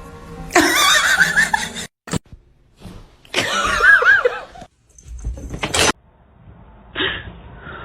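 Cat meowing in loud, wavering cries, cut off abruptly between short clips.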